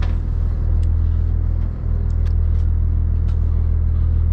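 Boat engine running steadily, a loud, even low hum, with a few faint short clicks over it.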